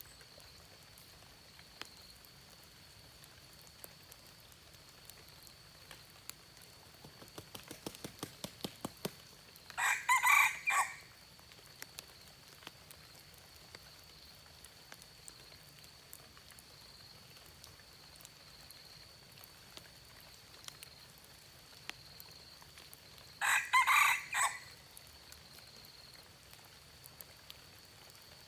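Red junglefowl rooster crowing twice, each short crow about a second long and some thirteen seconds apart. The first crow follows a quickening run of short beats.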